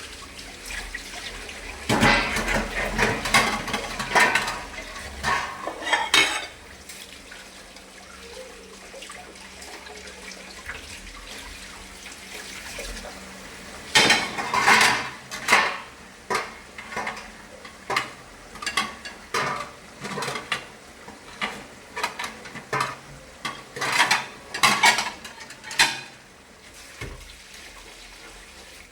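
Dishes and cutlery clattering as they are washed at a sink, in two spells of busy clinking, with water running from a tap.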